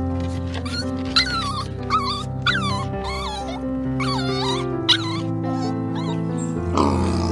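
Dog whining and yipping: a string of short high-pitched calls that bend up and down in pitch, over background music. Near the end a lower, rougher animal call begins.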